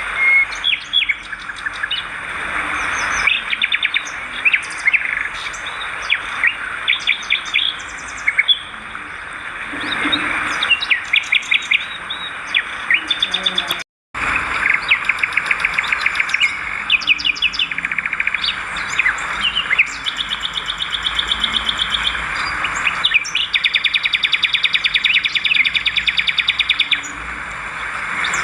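Swiftlets twittering, with rapid trains of clicks and chirps overlapping throughout. The sound cuts out completely for a moment about halfway through.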